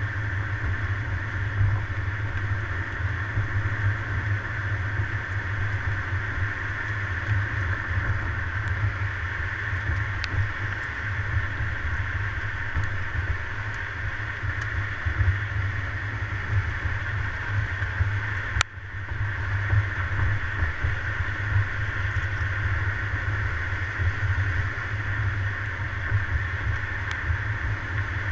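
A car being driven: steady engine and road noise picked up by a GoPro on a suction-cup mount on the car. A single sharp click about two-thirds of the way through, with a brief drop in the noise.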